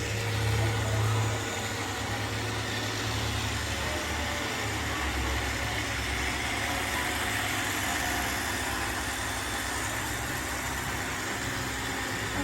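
Several robot vacuums running together with a steady motor and brush hum.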